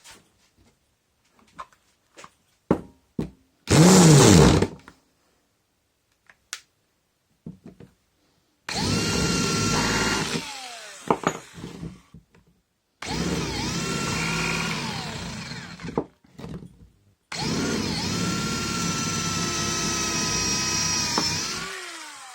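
Old Makita cordless hammer drill, refitted with an airsoft LiPo battery, run three times for a few seconds each with a steady motor whine that falls away as it coasts down after each release. Before the runs come a few clicks and a short loud burst.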